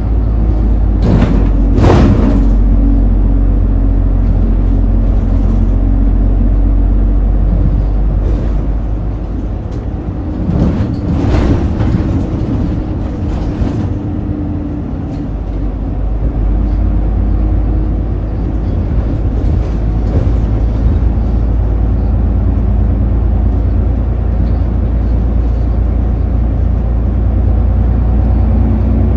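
Route bus heard from inside the cabin while under way, a steady low engine and road rumble. Two short bursts of noise stand out, about a second in and again around eleven seconds in.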